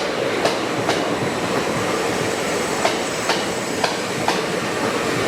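Train rolling slowly through the station, its wheels clicking over rail joints about twice a second against a steady rumble of running gear.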